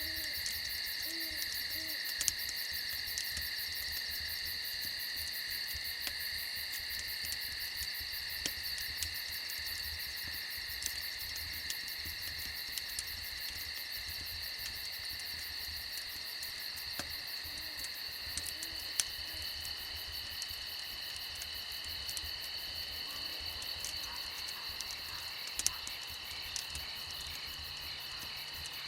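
Steady high chorus of crickets and other night insects, with a campfire crackling and popping now and then. An owl hoots in short runs of three or so hoots near the start and again from about eighteen seconds in.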